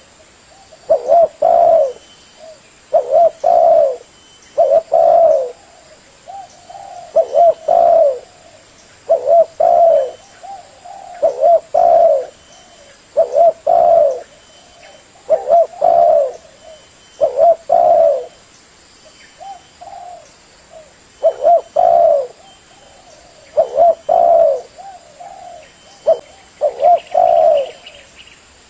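Spotted dove (tekukur) cooing: the same short phrase of low, rolling coo notes is repeated about every two seconds, with a fainter high chirp in between.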